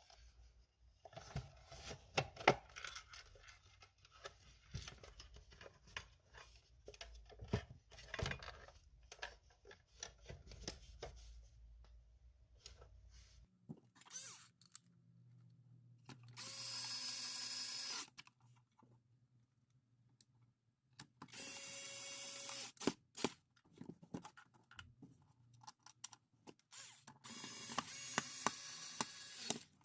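Clicks and knocks of parts being handled, then a small electric motor run three times in short bursts of one to two and a half seconds each.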